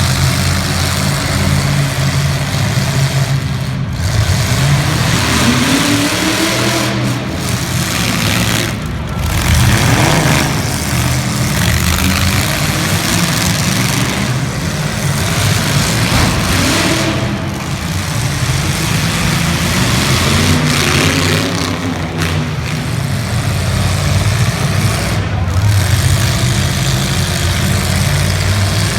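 Demolition derby cars' engines running loud, with a dense rumble and noise over them and an engine revving up and back down a few times.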